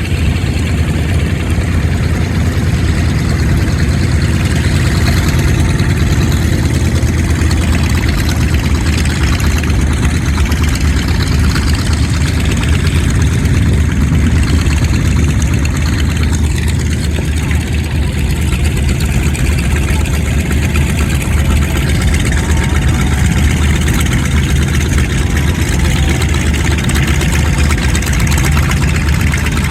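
Several Grumman Wildcat fighters' radial piston engines running at low power while the aircraft taxi, a steady low drone with a slight wavering of pitch near the end as the engines pass.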